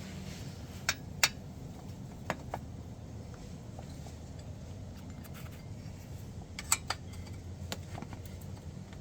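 Sharp metallic clicks and clinks of hand tools on an engine's exhaust fittings, coming in small pairs a few seconds apart, over a steady low hum.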